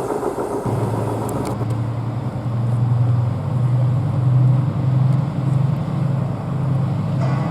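A large diesel engine running steadily, heard as a low hum that throbs about twice a second and sets in about a second in, after a clattering passage ends.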